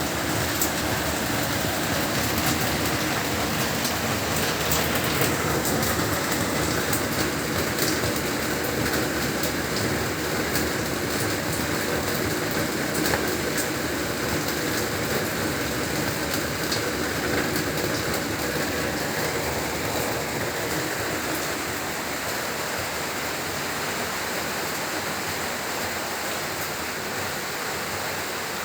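Heavy rain falling steadily, a dense hiss flecked with the ticks of individual drops. It eases slightly a little past two-thirds of the way through.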